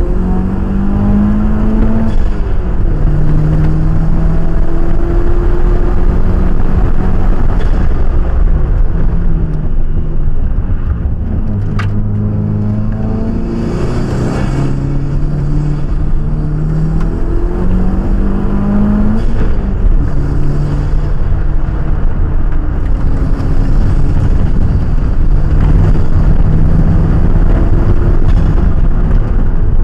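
Mitsubishi Starion's four-cylinder engine under hard acceleration on a hillclimb run, rising in pitch and dropping back again and again as it goes through gear changes and lifts for corners.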